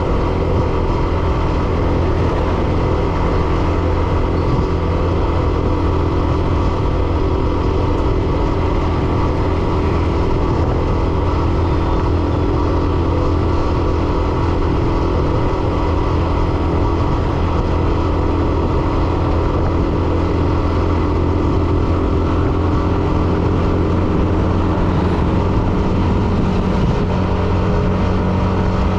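Hero Xtreme 125R's 125 cc single-cylinder engine running steadily while the motorcycle is ridden along, its engine note holding an even pitch.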